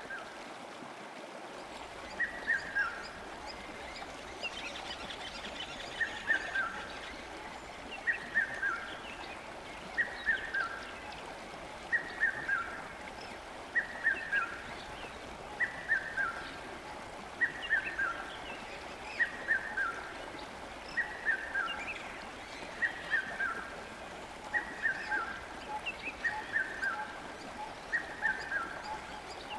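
A songbird repeating the same short phrase of a few falling notes roughly every two seconds over the steady rush of flowing river water.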